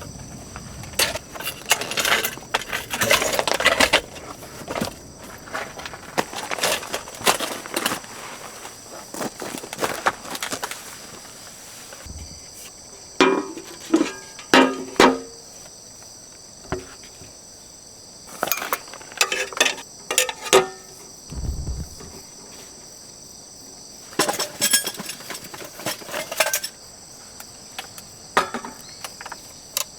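Crickets or other insects chirping steadily in the background, with irregular knocks, rustles and short clinks of camp gear being handled, including a quick run of metallic clinks about halfway through.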